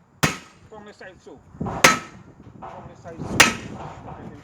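Three hammer blows on the steel rim of a truck tyre, about a second and a half apart, each a sharp metallic strike with a short ring.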